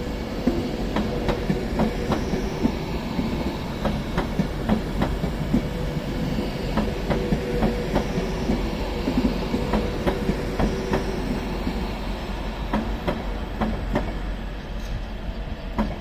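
Class 390 Pendolino electric train moving along the track, with a steady rumble and its wheels clicking repeatedly over rail joints and points.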